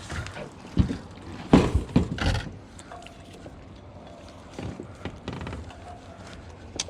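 A few dull knocks and thumps, four loud ones close together in the first two and a half seconds and softer ones later, with a sharp click near the end.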